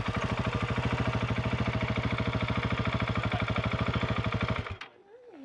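Vehicle engine idling with an even, fast pulse, then switched off about three-quarters of a second before the end, cutting out abruptly.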